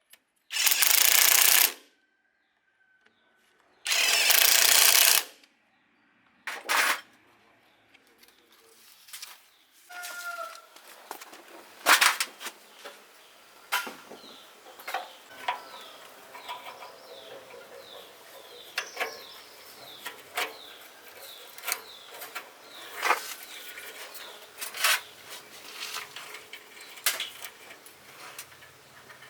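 Three short bursts of loud, even noise from a workshop tool in the first seven seconds. Then chickens calling, with many small chirps and scattered sharp clicks and taps.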